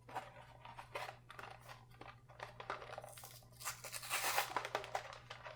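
Toy car packaging being torn and pried open by hand: irregular crinkling of plastic and tearing of card, with small clicks, getting busiest and loudest about two-thirds of the way through.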